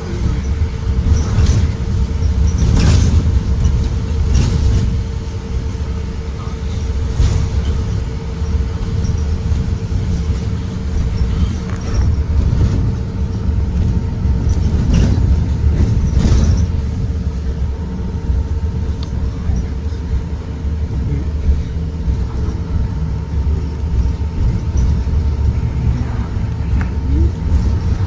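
2023 Blue Bird Vision school bus driving: a steady low engine and road rumble with a steady whine over it, and several sharp knocks or rattles scattered through the first half.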